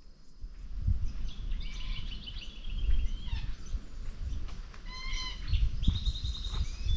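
Wild birds in eucalypt bush calling: several runs of short, quickly repeated chirps. Under them, irregular low thuds of a hiker's footsteps on the trail.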